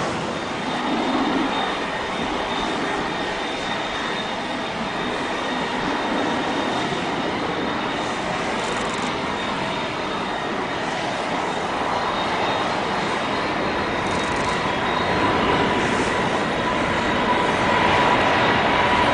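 Jet engines of a Boeing 777-300ER airliner, its General Electric GE90 turbofans giving a steady rushing roar with thin whining tones over it, growing louder near the end.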